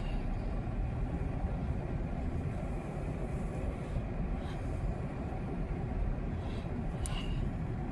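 Steady low rumble of a car running, engine and road noise, with a few faint ticks, the clearest about seven seconds in.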